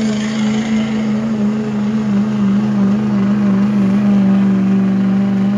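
Diesel pulling truck's engine held at high revs under load during a pull, one loud steady note at an almost unchanging pitch.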